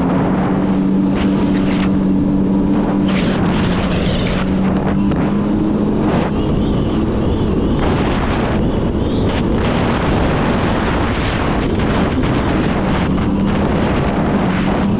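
Jet ski engine running at speed, its pitch shifting slightly as the throttle changes, with wind buffeting the microphone and the rush of water.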